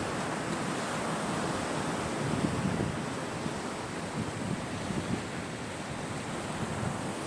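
Sea waves washing onto a shore in a steady rush of surf, swelling gently now and then, with some wind.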